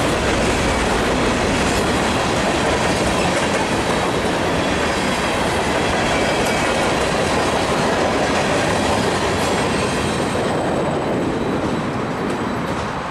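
A CN freight train of tank cars rolling past, a loud steady noise of steel wheels on the rails. It fades a little near the end as the train moves away.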